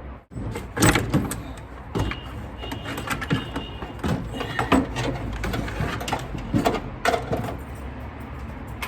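Irregular metallic clinks and knocks of hand tools against engine parts during a teardown, a few with a brief ring, over a steady low hum.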